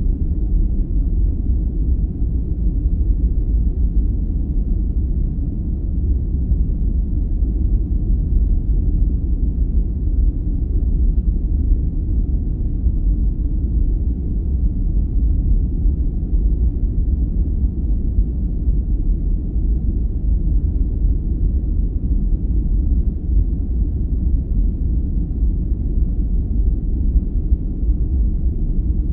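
Steady, deep rumbling noise of a sleep-aid white-noise track, unchanging, with all its weight in the low register and no high hiss.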